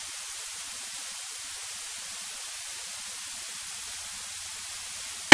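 Steady electronic hiss on the cockpit intercom/audio feed, with no engine note coming through.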